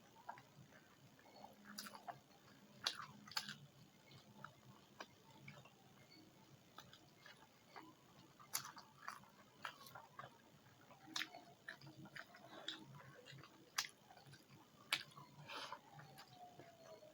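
Close-miked chewing and biting of a mouthful of rice and curry: wet mouth sounds with scattered sharp clicks and smacks, a few of them louder than the rest.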